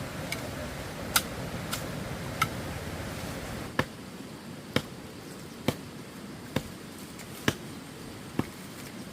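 A series of sharp knocks, six in a row about one a second, starting about four seconds in, after a few lighter clicks over a low rumble that stops just before the knocks begin.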